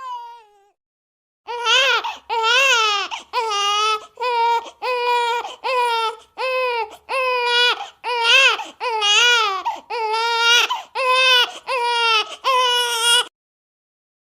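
High-pitched baby crying, a cartoon baby character's voice: a steady string of about fourteen short wailing cries, starting about a second and a half in and stopping just over a second before the end.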